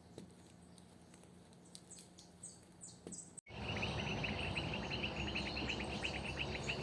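Outdoor ambience. The first half is near silent, with a few faint ticks and high chirps. After an abrupt cut about halfway in, a small creature chirps in a steady, rapid trill of several even pulses a second over a low hiss.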